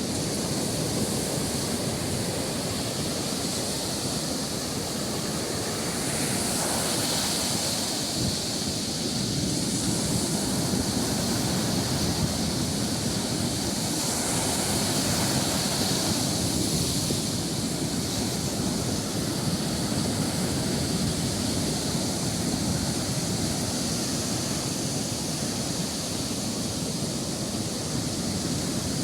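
Sea surf breaking and washing on the shore, a continuous rush that swells louder every several seconds as larger waves come in.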